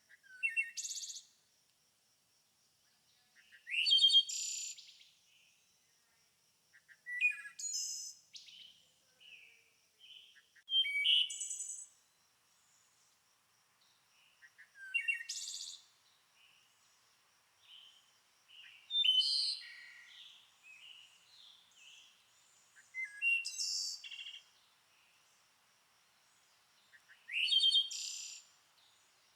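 A songbird singing short, high, fast phrases about every four seconds, with softer notes between them and a faint steady high tone in the background.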